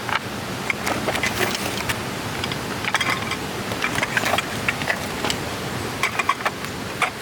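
Irregular small clicks and clinks of gear being handled close by, over the steady rush of a stream.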